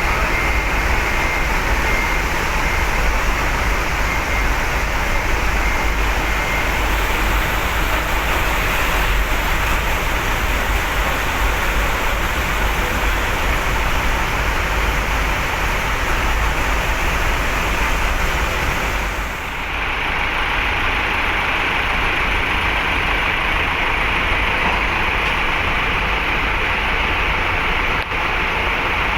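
Heavy truck engines running with a steady, noisy rumble. A faint repeating beep sounds over it for the first several seconds.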